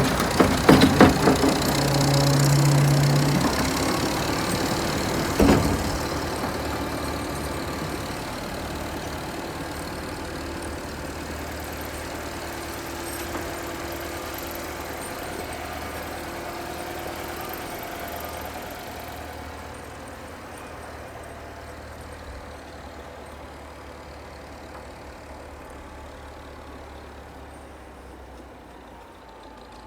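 Engine of a vintage Volvo snow-clearing vehicle running steadily and slowly growing fainter. A quick cluster of knocks comes at the start and a single sharp knock about five seconds in.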